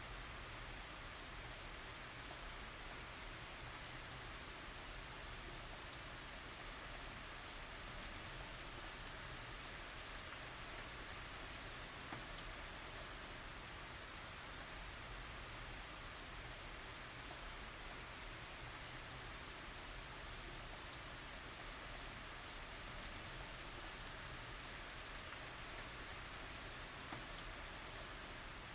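Steady rain falling on surfaces, an even hiss with scattered individual drop ticks and no thunder.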